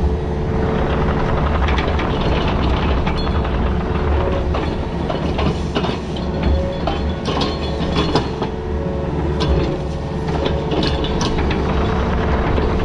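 Excavator's diesel engine running steadily under load, heard from inside the cab, with irregular metal clanks and rattles from the machine working in rocky ground.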